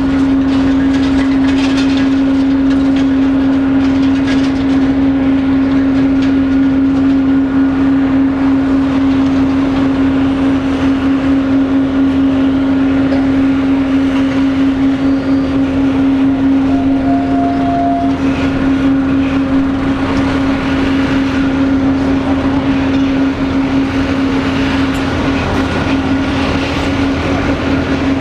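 Boeing 777-200 jet engines running steadily with a constant droning hum that holds one pitch, with no spool-up.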